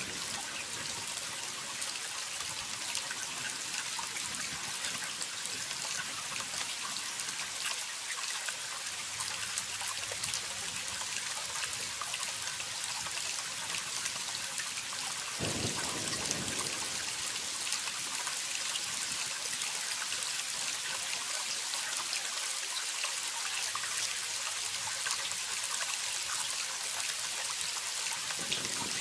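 Waterfall: a steady rush of falling water, hissy and bright, with fine splashing throughout. The sound steps up slightly about halfway through.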